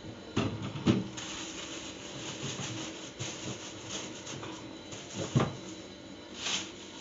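Plastic bags of vegetables crinkling and rustling as they are handled, with a few short knocks: two about half a second apart near the start, one more about five seconds in.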